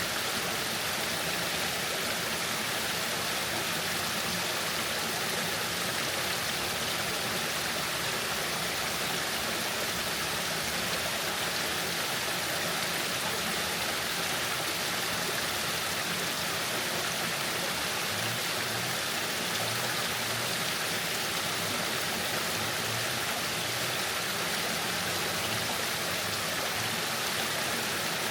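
Waterfall: falling water rushing steadily and unbroken.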